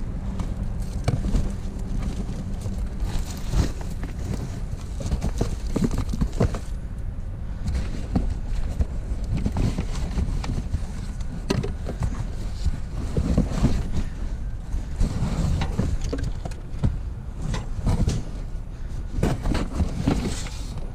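Wind buffeting the microphone in a steady low rumble, with scattered clinks and knocks of scrap metal pieces being picked through and handled.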